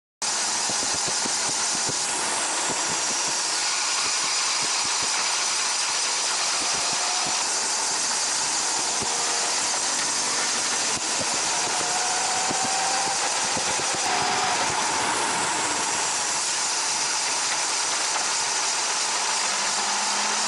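Honda CBR600RR front brake (right-side disc and pads) making a steady scraping hiss, the 'shari-shari' noise, with the engine running underneath. The owner suspects the disc pads, and possibly the brake dragging.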